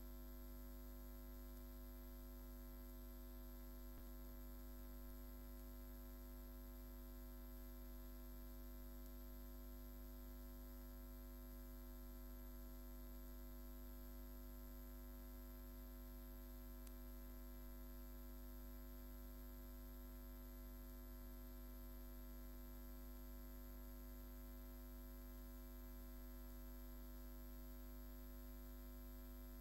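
Steady electrical mains hum, a low hum with a ladder of higher buzzing tones over faint hiss, unchanging throughout, with one faint click about four seconds in.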